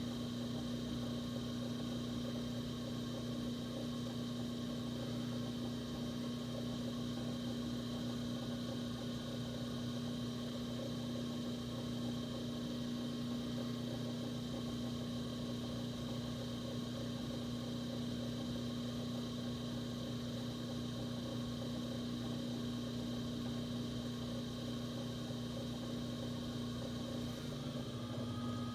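Electric potter's wheel running with a steady motor hum while clay is thrown on it; the hum's pitch shifts slightly near the end as the wheel speed changes.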